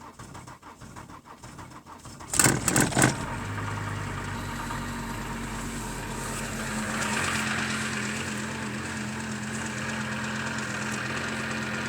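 1998 Volvo V70 2.5 TDI five-cylinder diesel cranking on the starter in deep cold, catching with a loud burst a little over two seconds in, then settling into a steady idle that swells slightly about seven seconds in.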